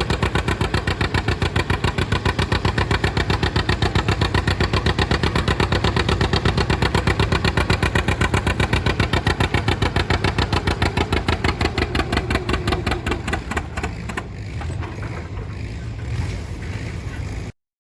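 Antique farm tractor engine running with a loud, steady, rapid beat. It eases off about twelve to fourteen seconds in to a quieter, less regular running, then cuts off suddenly near the end.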